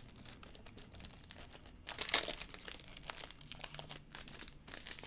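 Baseball trading cards and their pack wrapper being handled: a crinkling, rustling run of small clicks, louder about two seconds in and again near the end.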